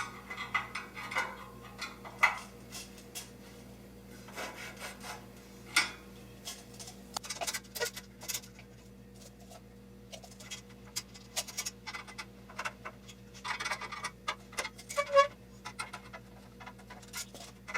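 Aluminium extrusion parts and hand tools being handled during assembly: irregular metallic clicks, taps and rubbing, over a steady low hum.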